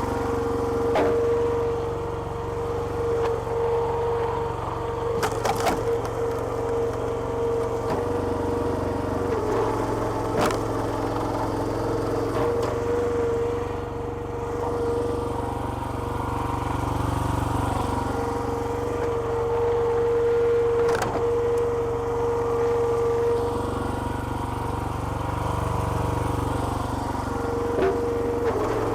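Small petrol engine running steadily, driving a hydraulic log splitter, with a steady whine over the engine hum. A few sharp cracks of wood splitting come at intervals. The whine drops out for a couple of seconds about three-quarters of the way through.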